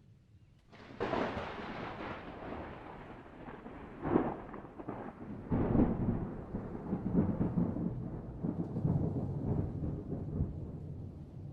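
Thunder: a sudden crack about a second in, then a long rolling rumble with further crashes at about four and five and a half seconds.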